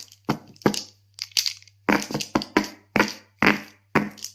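A quick run of short, sharp cracking and crunching noises, about two to three a second.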